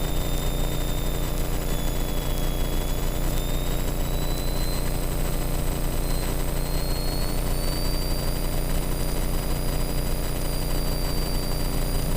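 Cockpit noise of a Van's RV-7 light aircraft in flight: its piston engine and propeller run with a steady drone. Over it is a thin high whine that slowly rises in pitch after a few seconds.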